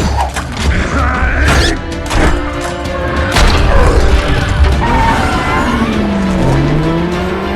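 Action-film car chase mix: dramatic score over a heavy low rumble, with several crashing impacts and booms in the first few seconds, then sliding tones rising and falling near the end.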